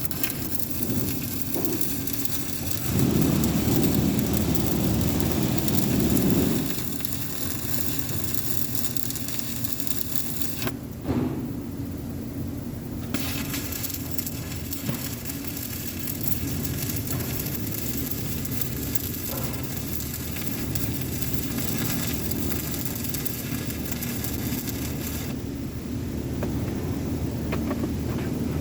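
Electric arc welding: the arc's steady crackling hiss, breaking off twice for a couple of seconds, over a continuous low hum.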